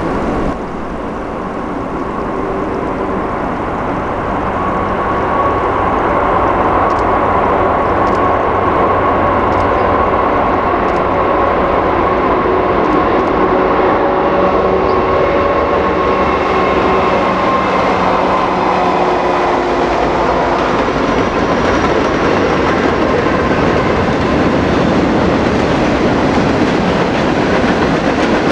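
A Norfolk Southern freight train led by a rebuilt GE C40-8.5W diesel locomotive approaches and passes. The locomotives' engines grow louder over the first few seconds with a steady drone of tones. From about twenty seconds in, the freight cars roll by with the noise of steel wheels on rail.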